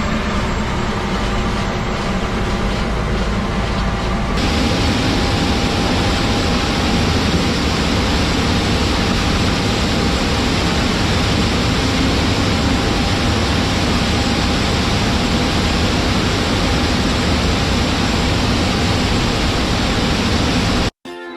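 Heavy farm machinery running steadily, a loud dense engine-and-machine noise with a constant hum through it. The sound shifts abruptly about four seconds in and cuts off just before the end.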